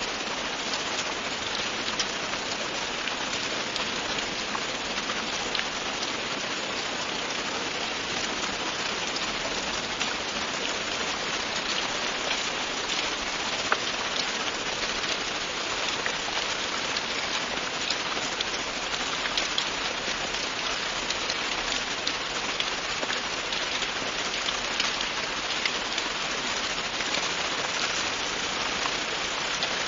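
Steady, continuous rain falling on a surface, a dense even hiss with many small drop patters scattered through it.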